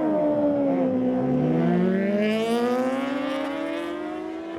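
Superbike engines at a drag strip: one engine note falls away while a second bike's note climbs steadily as it accelerates from about a second in, fading toward the end.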